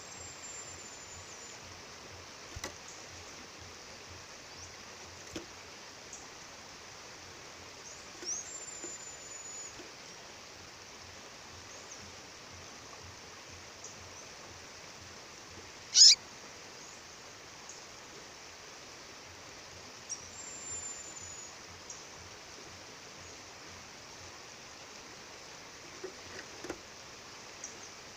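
A female songbird calling now and then with high, thin, slightly falling notes, and one loud sharp chirp about halfway through, over the steady rush of a waterfall.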